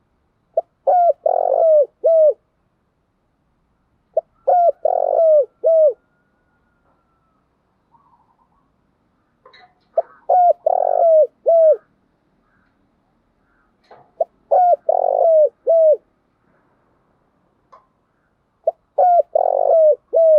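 Spotted dove cooing: five phrases of several short, falling coo notes, each phrase lasting about a second and a half, repeated about every four to five seconds.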